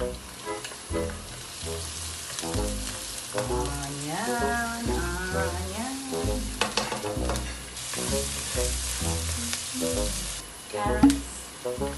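Chopped garlic and onion sizzling in hot oil in a nonstick wok, stirred and scraped with a wooden spatula; the sizzle gets louder about eight seconds in. Background music with a steady beat plays throughout.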